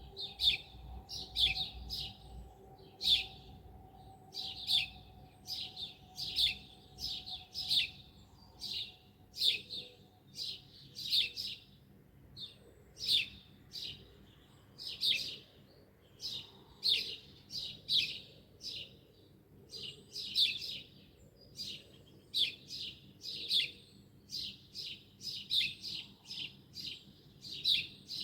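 Small birds chirping: a steady stream of short, high, repeated chirps, about two or three a second, with little pause.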